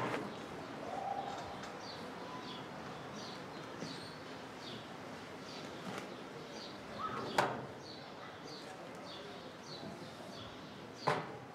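A small bird chirping repeatedly, short high down-slurred notes about twice a second, with a sharp knock about seven seconds in and another near the end.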